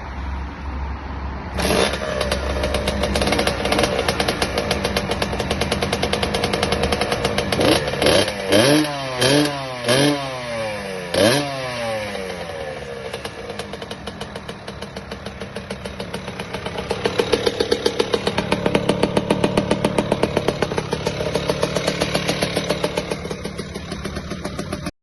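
Small 60cc dirt bike engine catching about two seconds in and running with a fast, even beat. A handful of quick rev blips follow near the middle, then a slower rise and fall in revs later on.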